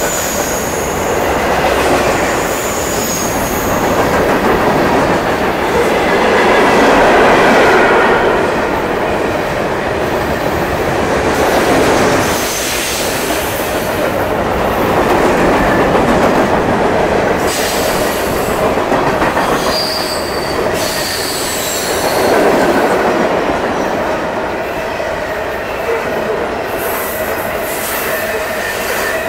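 Freight train's cars, covered hoppers and boxcars, rolling past at speed: a loud, steady rush of steel wheels on the rails. Thin high-pitched wheel squeal comes and goes.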